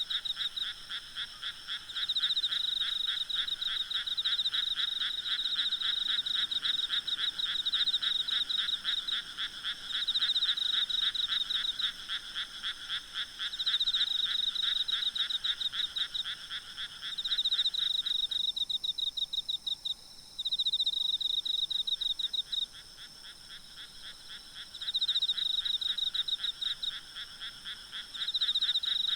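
Frogs calling in a dense night chorus of rapid, pulsed trills; a higher trill comes in bouts of a second or two every few seconds, and the lower, continuous part of the chorus stops about two-thirds of the way through.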